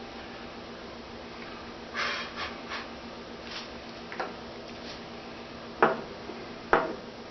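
Workshop handling sounds over a steady hum: a few brief scrapes or rustles, then two sharp knocks about a second apart near the end.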